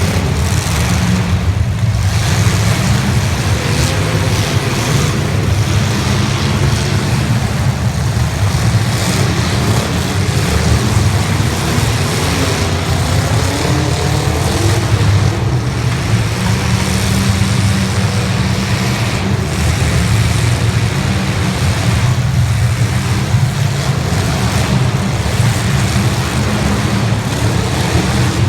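Several 1980s stock-class demolition derby cars' engines running hard, a dense steady rumble with engines revving up and down now and then.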